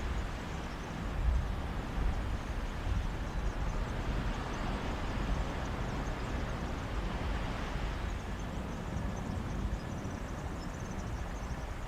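Mediterranean sea waves washing continuously onto the beach in a breeze, with wind rumbling on the microphone.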